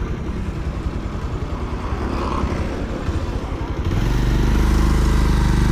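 Motorcycle engine running while riding, getting louder about four seconds in.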